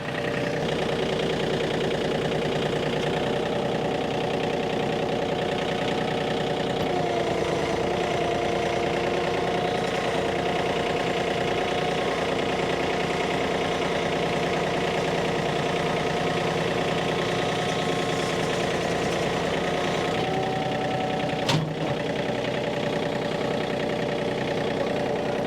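Tractor engine running steadily at idle, its speed shifting slightly about seven seconds in, with a single sharp knock a few seconds before the end.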